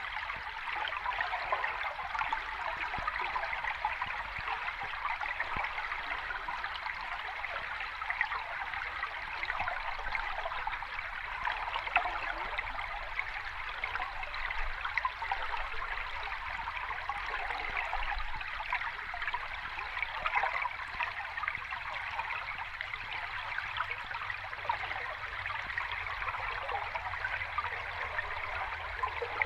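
Water running over rocks in a stream or small cascade: a steady babbling flow with small splashes throughout.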